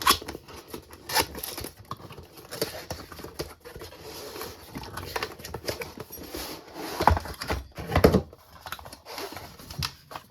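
Cardboard box and packaging being handled and opened to take out a cordless impact driver: a string of irregular clicks, knocks and rustles, with a couple of heavier thumps about seven and eight seconds in.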